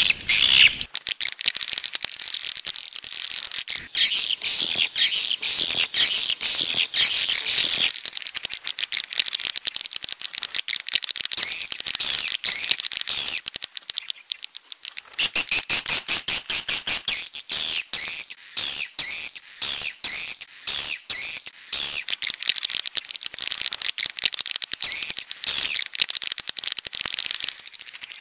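Swiftlet call recording of the 'jaguar' type: dense, fast twittering chirps and clicks, with a louder run of chirps a little past halfway. This kind of swiftlet sound is played to lure swiftlets into a nesting house.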